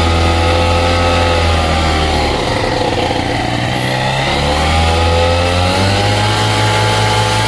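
Vittorazi Atom 80 two-stroke paramotor engine running through a home-built tuned expansion-chamber exhaust. Its revs drop about two seconds in, then climb again from about four and a half seconds, as the throttle is swept to find where the pipe comes on; that point turns out to be a power spike near 6,700 rpm.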